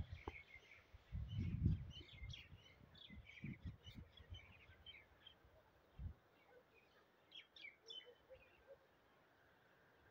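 Small birds chirping and twittering in quick short calls, thinning out in the second half, over faint outdoor background noise. A few low rumbles come in between one and two seconds in, with smaller ones later.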